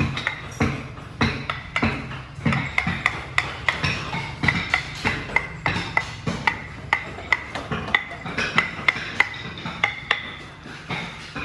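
Repeated sharp knocks or strikes, about two to three a second in a fairly even rhythm, with a hard wooden or percussive character.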